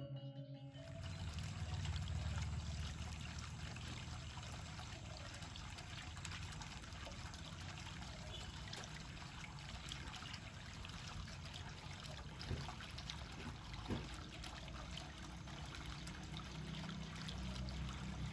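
Steady trickling, running water, with two faint knocks late on.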